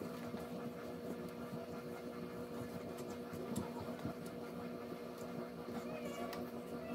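A few faint clicks and taps of plastic sink drain pipe parts being handled and fitted, over a steady low electrical hum.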